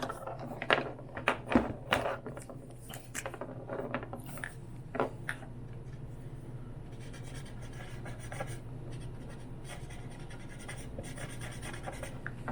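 Furniture scratch marker being rubbed and dabbed over the scratched finish of a wooden desk: a run of sharp taps and scrapes in the first five seconds, then fainter rubbing. A steady low hum runs underneath.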